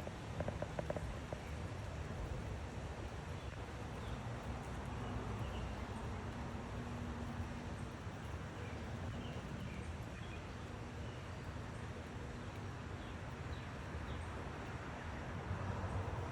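Outdoor park ambience during a walk: steady low rumbling background noise, with a few faint short high chirps and some small clicks.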